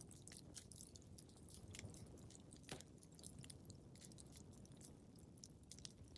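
Wood fire crackling in a fireplace: frequent small, irregular pops and snaps over a soft low rumble, with one sharper snap a little before the middle.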